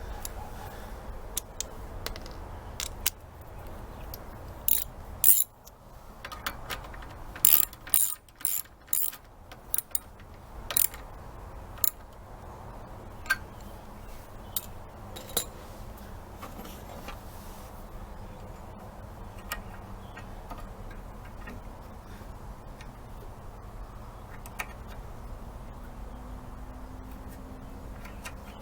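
Hand tools and small metal parts clicking and clinking in irregular bursts during reassembly of a string trimmer's carburetor mounting. The clicks are busiest from about five to eleven seconds in, with a steady low hum underneath.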